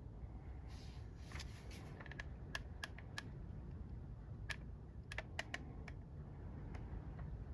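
A scatter of small, sharp clicks and taps from handling a plastic action figure and a hot glue gun, over a low steady hum.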